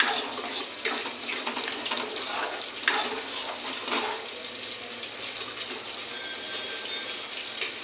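Chicken and masala sizzling as they fry in a pan, with a few sharp scrapes or clinks of a spoon against the pan, the loudest about three seconds in.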